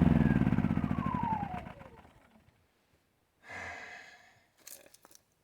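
Champion 100900 inverter generator's small single-cylinder four-stroke engine being shut off, falling in pitch and slowing until it stops about two seconds in. A short sound follows a second and a half later, then a couple of faint clicks.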